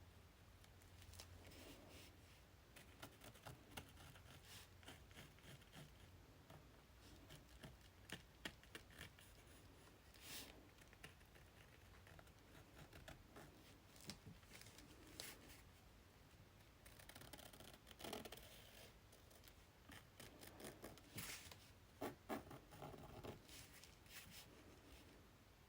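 Faint, irregular scratching strokes on paper as stems and leaves are drawn, with a few louder paper rustles about ten seconds in and again near the end.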